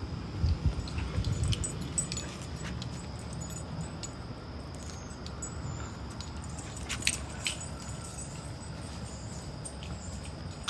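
Dogs moving about and playing: light jingling and scuffling with scattered clicks, and a few low bumps in the first two seconds.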